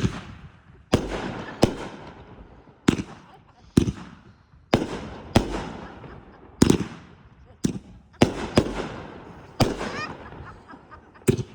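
A box of consumer aerial fireworks going off: about a dozen sharp bangs at uneven intervals, roughly one a second, each trailing off as it fades.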